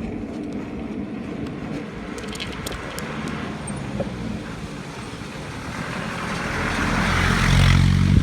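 A motor vehicle's engine running with road noise, growing louder over the last couple of seconds as it draws close.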